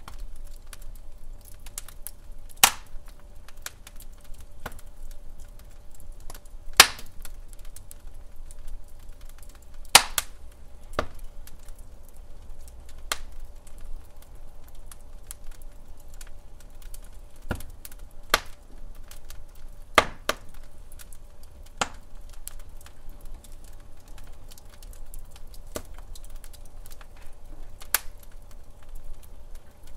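Wood fire crackling and popping in a fireplace: irregular sharp pops and snaps, a few louder ones every several seconds, over a faint steady background.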